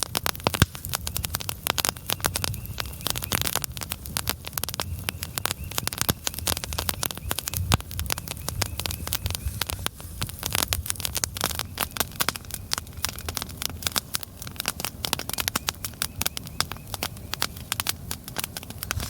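Larch-wood campfire crackling, with dense, irregular sharp pops all the way through.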